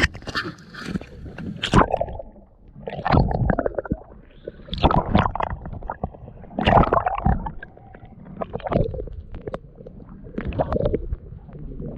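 Water sloshing and splashing around a small boat's hull in irregular surges every second or two, with a low rumble beneath.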